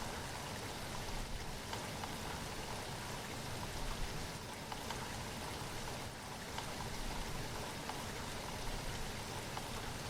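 Steady rain falling, an even hiss with the patter of many scattered drops.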